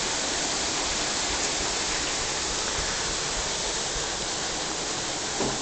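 Heavy thunderstorm rain pouring down hard, a steady, dense hiss with no let-up.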